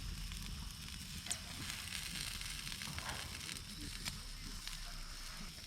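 Pork ribs sizzling over a wood campfire with a steady faint hiss, and a few sharp crackles from the burning wood.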